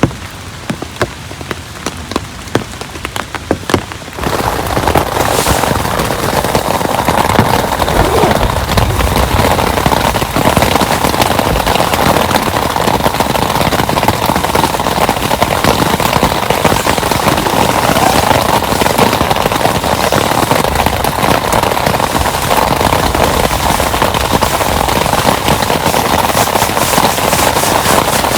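Rain: scattered drops for the first few seconds, then about four seconds in it suddenly becomes a loud, dense downpour that keeps up steadily.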